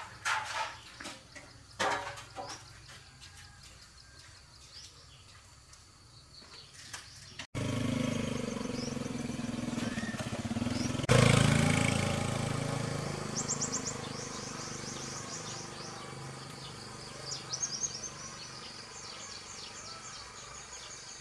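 A few sharp knocks, then a motor vehicle's engine rumble that swells suddenly and fades slowly away, with birds chirping.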